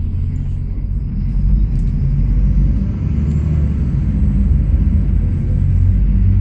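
MAZ 103 city bus under way, heard from inside the passenger cabin: a steady low engine and road rumble.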